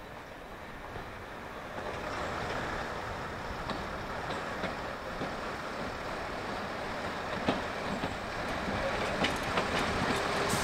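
A train rolling on the line, a steady rumble that grows louder from about two seconds in, with a few sharp clicks in the last few seconds.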